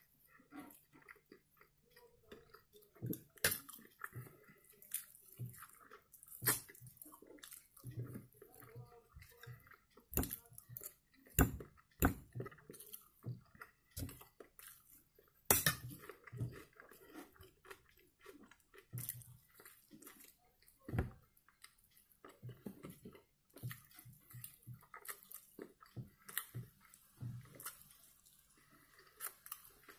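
Close-up chewing of smoked mackerel and boiled potatoes, with irregular sharp clicks and now and then a fork clinking on a glass plate.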